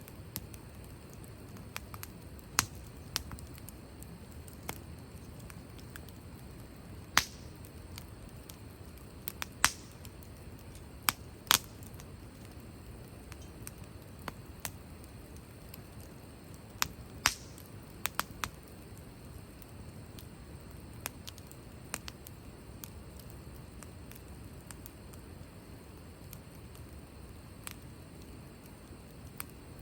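Wood campfire crackling: sharp pops at irregular intervals over a low, steady rumble of burning, the loudest pops bunched in the middle.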